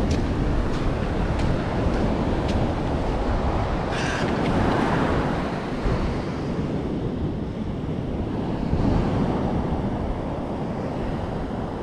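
Ocean surf washing in steadily, with wind buffeting the microphone. A few sharp clicks in the first couple of seconds and a short scratchy rustle about four seconds in.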